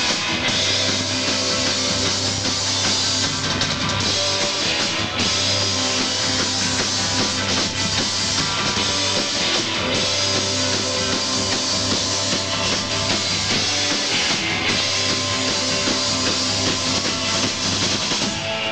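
A rock band playing live and loud, with a drum kit and electric guitar, as heard through a club's PA.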